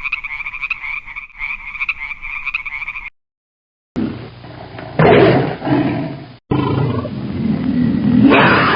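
A high, rapidly pulsing animal call that cuts off after about three seconds. After a second of silence a big cat roars twice, loud and deep.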